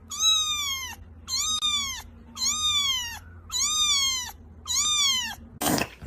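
A domestic cat meowing five times, about once a second, each meow rising quickly and then falling in pitch. A short burst of noise comes near the end.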